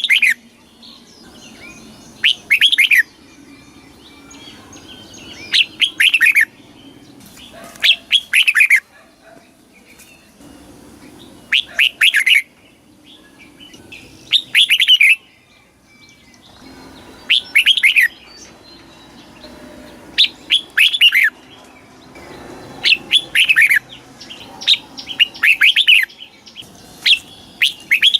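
Red-whiskered bulbul singing: short, loud phrases of quick falling notes, repeated every two to three seconds.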